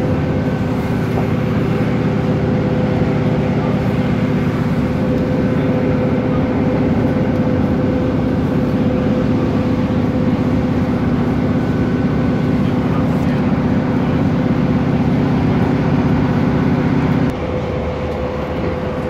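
A passenger train running, heard from inside the carriage: a steady rumble with a low hum and a held mid-pitched tone. The low hum drops away suddenly near the end, leaving the tone and the rumble.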